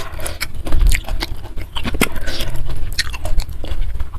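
Close-miked chewing and biting of a mouthful of food, with irregular wet clicks and smacks of the mouth.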